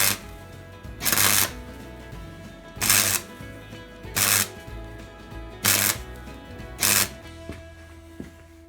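Six short bursts of welding crackle at uneven gaps, steel being tack-welded into a rusted chassis rail. Background music plays under them.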